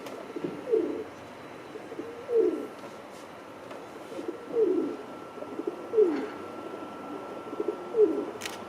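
Feral pigeon cooing: about five low, falling coos, one every one and a half to two seconds.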